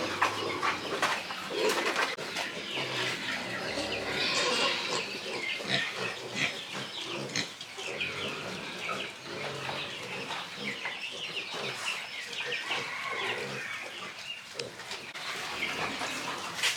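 Piglets grunting and squealing in many short, overlapping calls.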